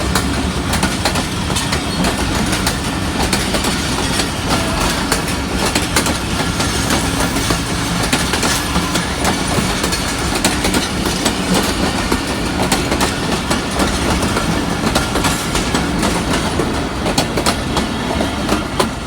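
Passenger train hauled by an HBU 20 diesel locomotive running along the track: a steady rumble with wheels clicking over the rail joints throughout.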